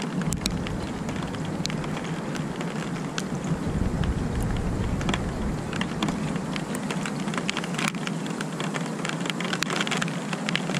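Steady rain falling, with many single drops ticking close to the microphone, over a continuous low rumble.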